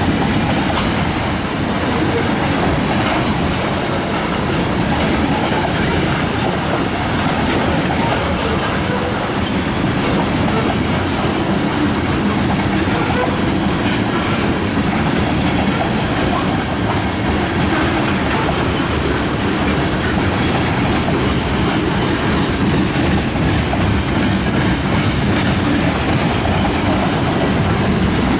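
Cars of a Canadian National manifest freight train rolling past at steady speed, steel wheels clattering over the rail joints in a continuous clickety-clack.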